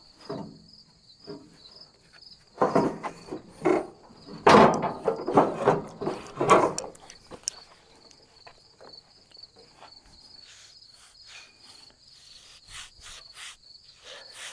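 A few seconds of loud, irregular clattering and knocks from hands working loose parts on a bandsaw sawmill, over a steady high pulsed chirping of insects.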